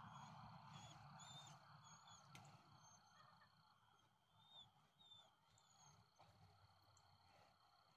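Near silence outdoors, with faint, scattered high chirps of small birds over a thin, steady high tone.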